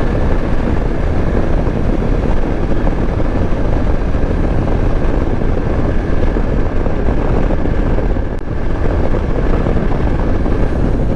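Yezdi Adventure motorcycle's single-cylinder engine running steadily at highway cruising speed, under a heavy rush of wind and road noise, with a brief lull a little past eight seconds.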